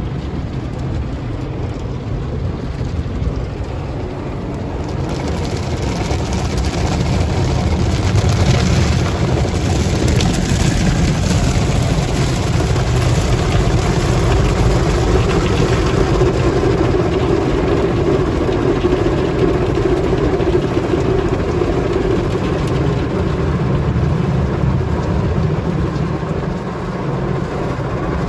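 Car wash machinery running over a car: a steady low rumble, with a hiss of water spray coming in about five seconds in and a steadier hum building in the middle.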